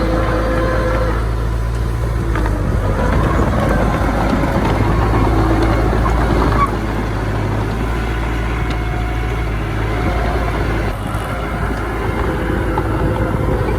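Diesel engines of earthmoving machines running steadily, a deep rumble with faint whining tones drifting above it; it drops a little in loudness about seven seconds in.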